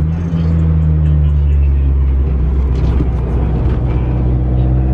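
Toyota AE86's BEAMS 3S-GE four-cylinder engine running at a steady cruise while the car is driven on the road.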